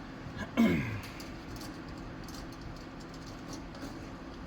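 A short grunt from a man's throat about half a second in, its pitch falling, over a steady low hum.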